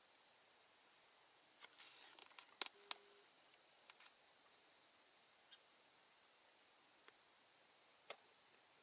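Near silence: a faint, steady high-pitched hiss with a few small clicks, the loudest two close together about three seconds in.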